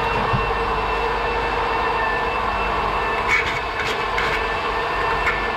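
Floor sanding machine running steadily on an oak hardwood floor, with a few short scratchy strokes about three to four seconds in.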